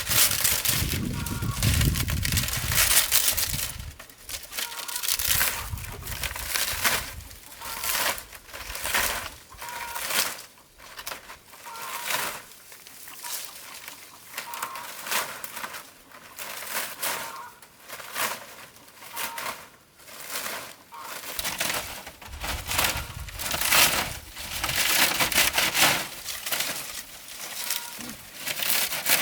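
Irregular crackling and crunching of dry material, louder near the start and again near the end, with faint short chirps in the background.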